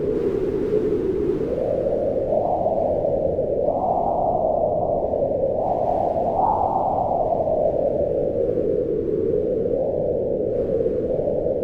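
Low, steady howling wind that swells and eases in slow gusts, rising in pitch about four and six seconds in, then settling lower.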